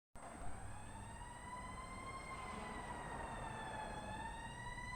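Fire engine siren in a slow wail, heard faintly: its pitch climbs, falls back about four seconds in, then starts to climb again.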